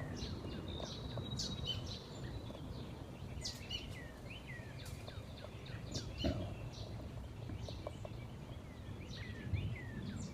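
Several wild birds chirping around a backyard bird feeder: many short, high chirps and quick downward-sweeping calls scattered throughout, over a steady low background rumble.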